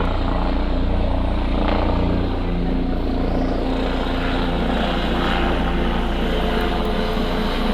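Police helicopter flying overhead: a steady rotor and engine rumble with a fast low beating.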